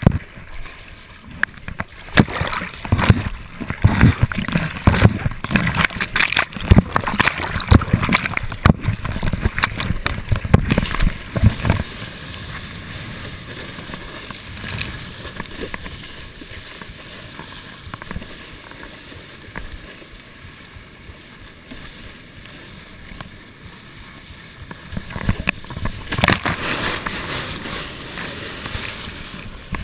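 Ocean surf washing and breaking on the beach, heard as a steady rushing hiss. Wind buffets the microphone with irregular loud rumbles through the first dozen seconds and again near the end.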